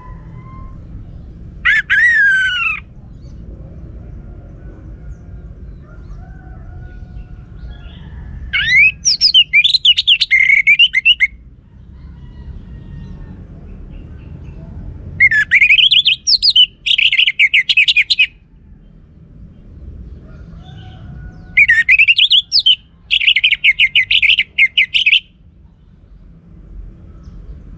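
Orange-headed thrush singing: four phrases separated by pauses of a few seconds, each opening with rising whistled notes and running into a fast, varied warble. A faint low rumble runs underneath.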